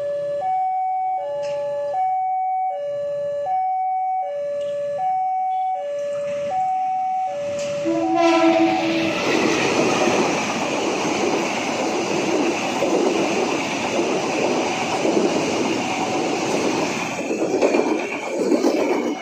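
An emergency vehicle's two-tone hi-lo siren alternates steadily for about eight seconds. It is then drowned out by the loud, steady noise of a train passing close by, which lasts about ten seconds.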